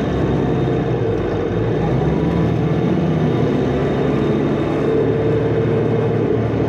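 Cummins ISL inline-six diesel engine of a 2005 New Flyer D40LF transit bus running steadily under way, with a thin high turbo whine over the engine note.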